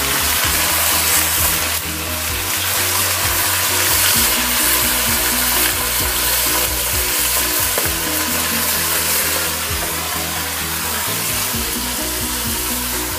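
Pieces of fish frying in very hot seed oil in a cooking pot: a loud, steady sizzle with no break.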